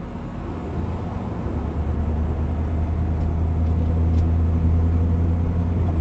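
Car engine and road noise heard from inside the cabin, a low steady hum that grows louder as the car pulls forward.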